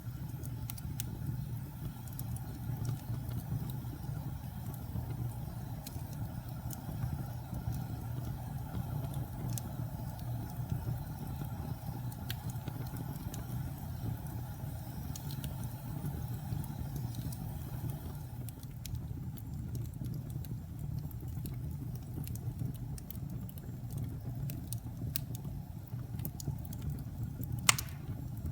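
Fire in a fireplace burning with a steady low rumble and scattered light crackles, and one sharp loud pop near the end.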